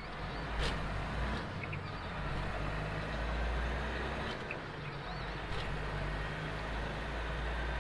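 Semi-truck diesel engine running steadily with its cooling fan engaged, a low rumble with road and cab noise and a few faint clicks.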